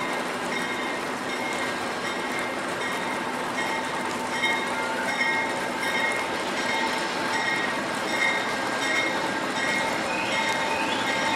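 Passenger train led by a GE P42DC diesel locomotive pulling slowly out of the station with a steady rumble. A regular ringing tone repeats under it about every half second, and short rising squeals come in near the end.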